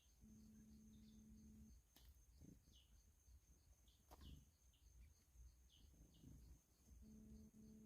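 Faint bird chirps: short, high, falling notes repeated at uneven intervals. A low steady hum starts and stops underneath.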